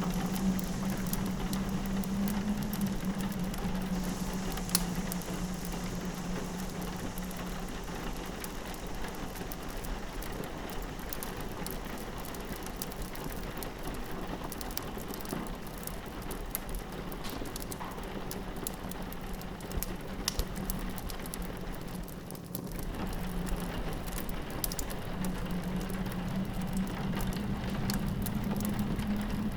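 Rain pattering steadily against a window, with a fireplace crackling in many small, sharp pops over it. Under both runs a low hum of wind, stronger at the start, weaker through the middle and rising again near the end.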